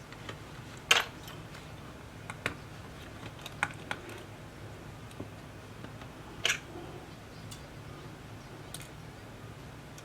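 Scattered sharp clicks and taps of small tools and parts being handled during tablet repair work, the loudest about a second in and about six and a half seconds in, over a steady low hum.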